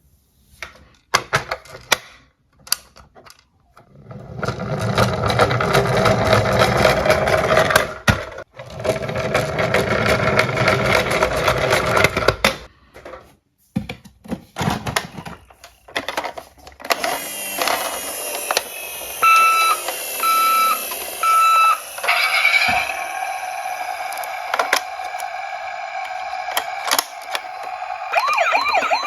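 Toy cars clicking and clattering as they are handled, then a rattling roll for several seconds, typical of small cars running down a plastic slope. Later a toy's electronic sound module gives three short beeps, then a steady tone, and near the end a wavering electronic siren starts up.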